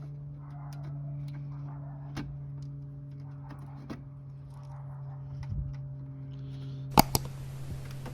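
Light clicks and knocks of car body parts and fasteners being handled, over a steady low hum, with two sharp loud clicks about seven seconds in, followed by a hiss of about two seconds.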